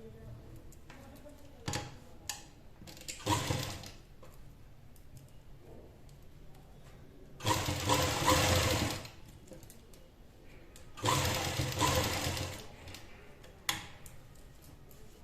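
Sewing machine stitching in three short runs, each one to two seconds long, with a few sharp clicks between them.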